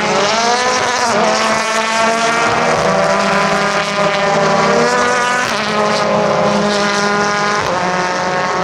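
Race car engines running hard on the circuit. The pitch climbs and drops back several times as the cars change gear.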